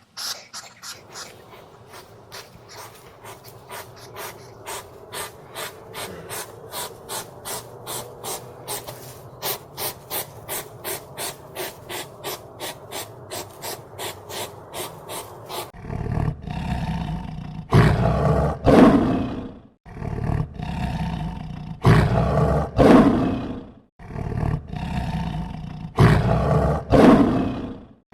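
Fast, even clicking of about three pulses a second, then, from about halfway, a large animal roaring: a series of loud, drawn-out roars about four seconds apart.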